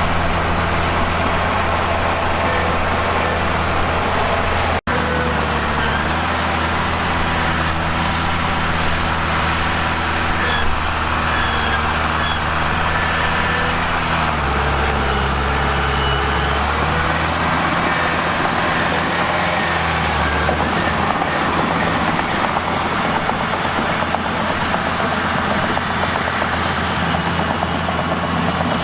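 Bulldozer diesel engine running steadily under load, its engine note dropping and rising a few times as the load changes, with a rumbling noise of the machine working over it.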